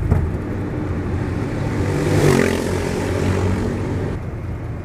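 A motor vehicle passing close by over steady road noise, its sound swelling to a peak a little over two seconds in and then fading.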